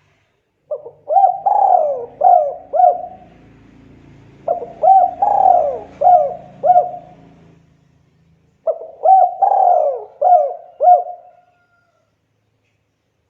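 Spotted dove (tekukur) cooing: three song phrases a few seconds apart, each a quick run of about five coos.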